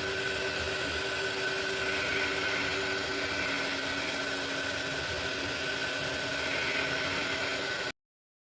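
Anycubic Kobra 3 Combo 3D printer running a print: a steady whine at a few fixed pitches that shift every few seconds, over an even hiss. It cuts off suddenly near the end.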